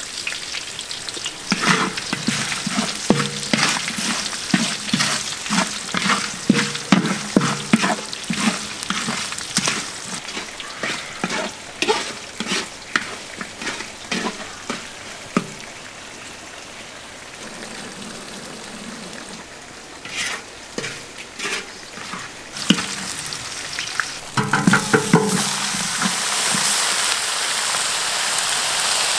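Lemongrass and herbs sizzling in a large metal wok, stirred and scraped with a wooden stick in quick repeated strokes. Near the end the sizzle grows louder and steadier as whole catfish go into the hot wok.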